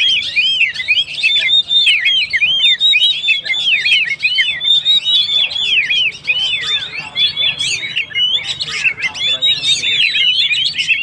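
Oriental magpie-robin (kacer) singing non-stop: a fast, unbroken stream of high chirps, each rising and falling quickly in pitch.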